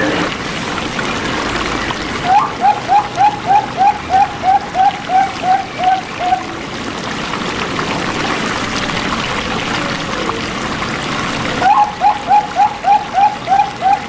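Zebra dove (perkutut) calling: a quick series of soft cooing notes, about three a second, once about two seconds in and again near the end, over a steady background of running water.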